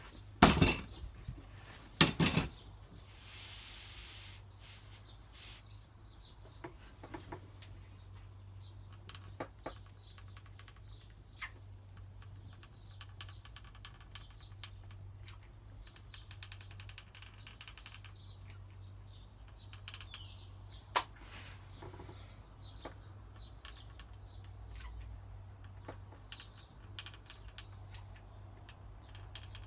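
Sharp clicks and knocks from working a sealant gun to lay adhesive along a wooden batten, the two loudest about half a second and two seconds in, with scattered fainter ticks and another sharp click about 21 seconds in, over a low steady hum.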